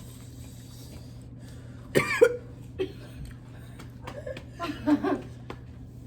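People coughing and making short vocal outbursts from the burn of eating whole fresh jalapeños with Takis and cream cheese. One loud outburst comes about two seconds in and a cluster of shorter ones near the end, over a steady low hum.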